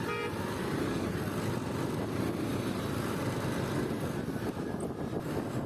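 Motorcycle riding steadily through traffic: engine running with wind and road noise on the rider's microphone.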